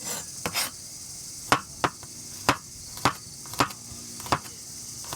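Knife chopping on a cutting board: about ten sharp strokes at uneven intervals, most likely vegetables being cut for soup. A steady high insect drone runs underneath.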